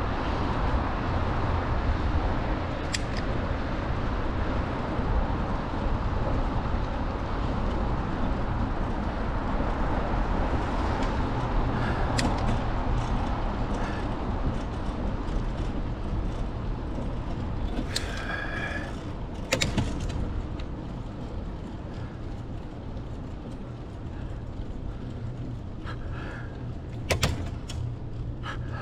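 Wind rushing over the microphone with tyre noise from a bicycle ridden fast downhill. The rush eases somewhat in the second half. A few short squeaks and clicks come through, clustered about two-thirds of the way in and again near the end.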